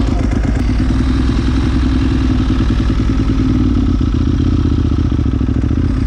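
Ducati 1198S motorcycle's L-twin engine running steadily.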